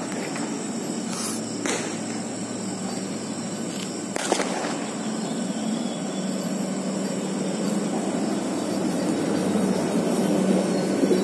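Train 18 electric multiple-unit trainset approaching and running past, its wheels on the rails and a low steady hum growing louder as it draws near. Two sharp clicks sound about two and four seconds in.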